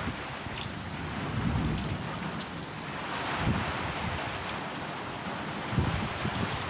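Heavy rain pouring steadily, with a few brief low rumbles.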